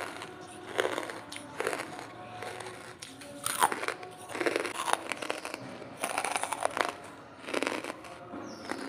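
Close-up chewing of dry charcoal lumps: a series of crisp crunches, roughly one every second.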